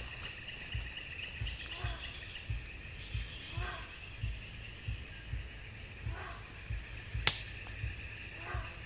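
Forest ambience: a steady insect chorus with a high chirp repeating about twice a second, a few short calls and low irregular thumps. One sharp click about seven seconds in is the loudest sound.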